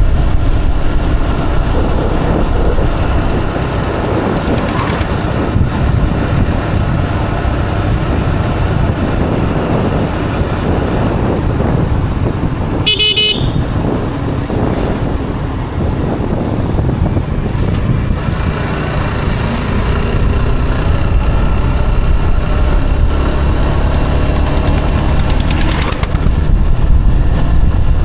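Steady road noise of a moving motorcycle: engine and wind rumble. About halfway through, a vehicle horn gives one short toot.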